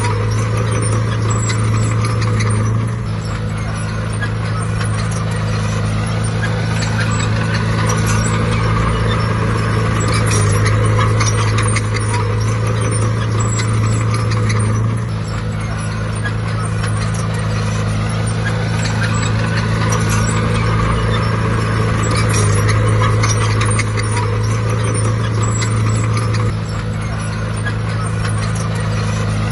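Heavy diesel engine of earthmoving machinery running under changing load, its note stepping up and down every several seconds, with a steady metallic clatter over it.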